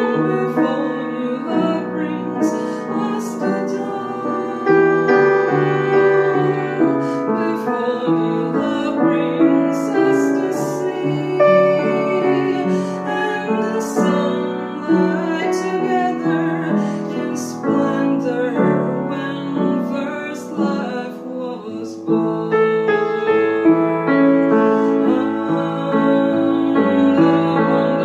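Slow piano accompaniment with a woman singing a held, wavering melody over it. The music dips in loudness about three-quarters of the way through, then comes back fuller.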